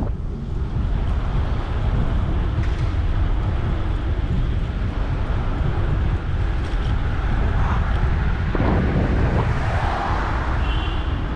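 Steady low wind rumble on the microphone and street traffic noise while riding a bicycle on city streets, with a brief high tone near the end.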